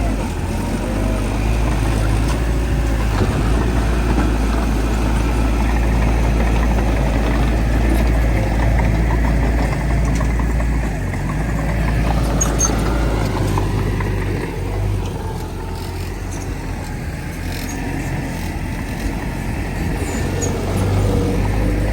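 Heavy diesel earthmoving machinery running steadily, with a deep engine note. It eases off a little past the middle and picks up again near the end.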